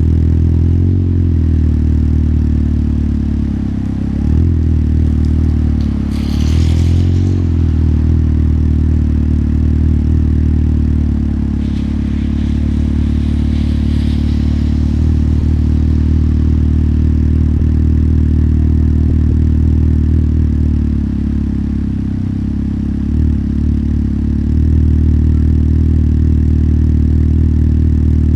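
Motorcycle engine running steadily under way, its pitch dipping and rising with throttle changes a few times. A brief hiss comes about six seconds in and a longer one around twelve to fifteen seconds in.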